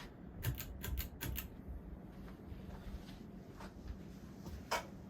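Pull-chain speed switch of a Hunter Monticello ceiling fan being pulled to medium: a quick run of clicks and chain rattle about half a second to a second and a half in. A steady low hum runs underneath, and one more sharp click comes near the end.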